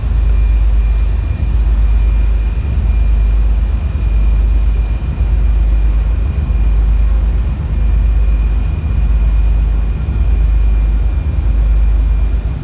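Wind buffeting the camera microphone: a loud, continuous low rumble that dips briefly every second or so, with a faint steady high whine under it.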